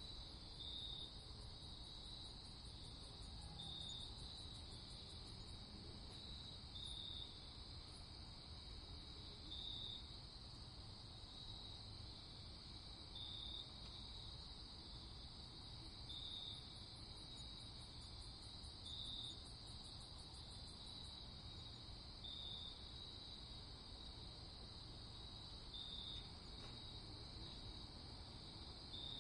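Night insect chorus of crickets: a steady high-pitched trilling, with a louder chirp repeating about every three seconds and a faster, higher trill that fades in and out.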